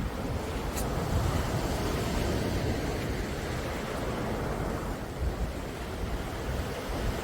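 Calm sea waves washing in, a steady rushing wash with a low rumble that swells gently, and wind on the microphone.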